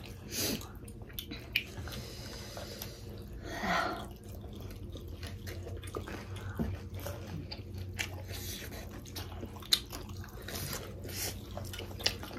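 Close-up chewing and wet mouth sounds of people eating juicy pork momos (Nepali dumplings), with scattered sharp smacks and clicks.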